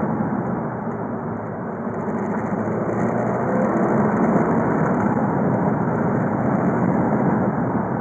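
Volkswagen Golf V 2.0 TDI (BKD) four-cylinder turbodiesel running under way, with road and drivetrain noise. It grows slightly louder a couple of seconds in.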